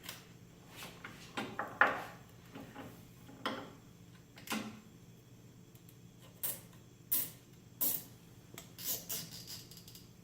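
Hands working on lift-table parts: a string of separate knocks, rubs and clicks, with the loudest knock about two seconds in.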